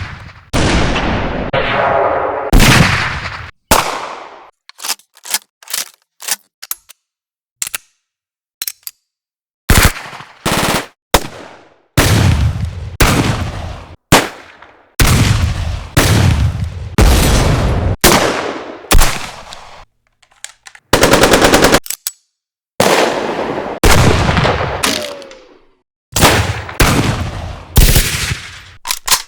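A run of separate gunfire sound effects from assorted firearms, one after another: single shots and automatic bursts, each trailing off into a long decaying tail, with short gaps between them. A little past the middle comes a fast, even machine-gun burst.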